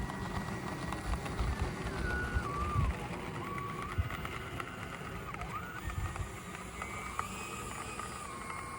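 Electric ducted-fan jet (Freewing Zeus 90mm, 8S) whining in flight. Its pitch steps down and slides back up several times, with gusty wind rumble on the microphone underneath.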